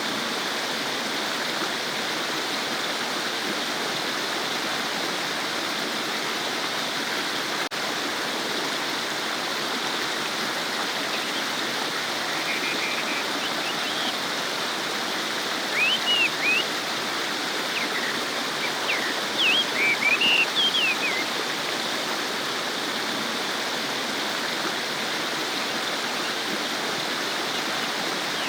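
Stream water babbling and rushing steadily over rocks. A few short high chirps come through the water noise about halfway through and again near the end.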